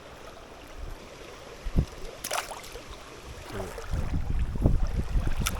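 Water splashing and knocking, with a sharp splash about two seconds in and low rumbling thumps in the second half. A short sharp click comes just before the end.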